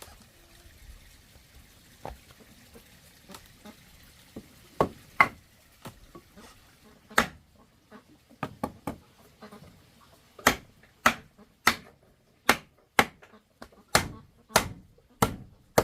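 Hammer blows on wood: a few scattered strikes at first, then a steady run of blows a little more than half a second apart in the second half.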